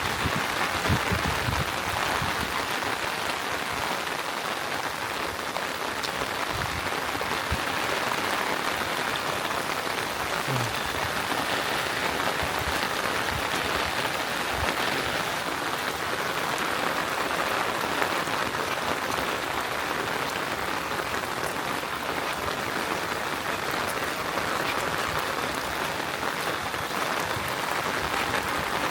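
Steady rain falling: a dense, even patter that holds at the same level throughout.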